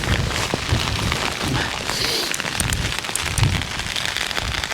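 Heavy rain falling in a dense pattering of drops, with gusts of strong wind buffeting the microphone.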